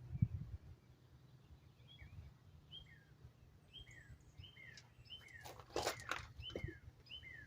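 A songbird calling over and over with short, falling chirps, about two a second. A low thump comes right at the start, and a few sharp clicks and rustles are heard near the end.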